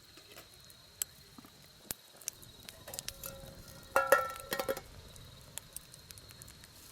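Steady high-pitched insect chirping, with scattered pops and crackles from a campfire. About four seconds in, a short run of ringing metallic clinks is the loudest sound.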